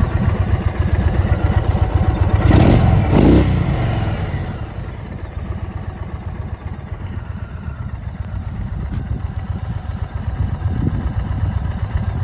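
Indian Super Chief's air-cooled Thunderstroke V-twin idling with its lumpy low rumble, revved once about two and a half seconds in, then dropping back to a quieter idle.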